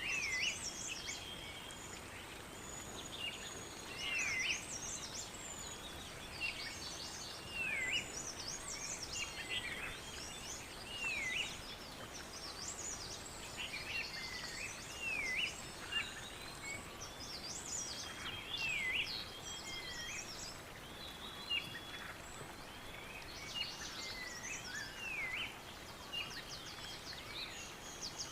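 Several birds calling and singing together, with a short swooping call repeated many times and lots of high quick chirps over a soft steady hiss. A thin, steady high tone runs underneath and stops a little past halfway.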